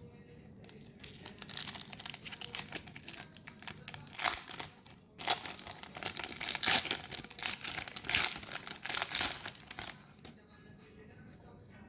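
Foil booster-pack wrapper crinkling and rustling in dense, irregular crackles as it is handled and opened, stopping a couple of seconds before the end.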